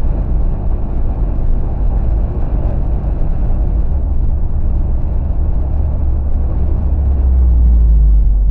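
Car on the road, a steady low rumble of driving noise that swells near the end.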